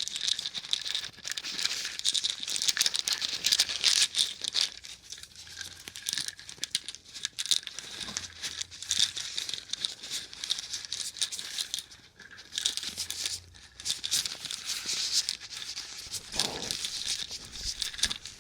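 Close-miked plastic syringes and syringe caps being handled, a dense run of small rattles, clicks and crinkles. Partway through, syringes begin to be pushed into a soft foam sponge.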